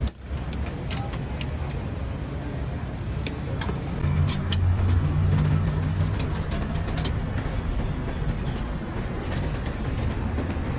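Road traffic with a steady low rumble. A vehicle engine grows louder about four seconds in and eases off after about seven seconds, with scattered sharp clicks over it.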